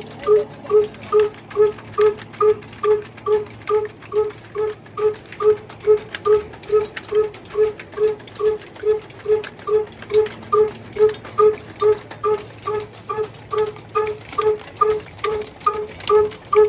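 Diesel engine running slowly and evenly, its exhaust beating in short pitched pulses about two and a half times a second.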